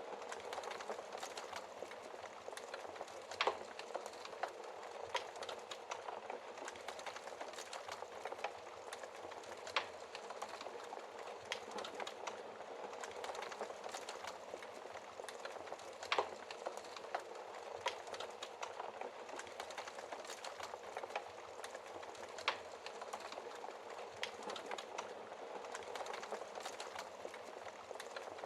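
Wood fire crackling in a fireplace: a steady dense crackle, with four louder pops spaced about six seconds apart.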